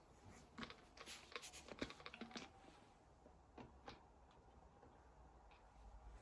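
Faint light clicks and taps in a small room: a quick cluster of them over the first two seconds or so, then two single taps about a second and a half later.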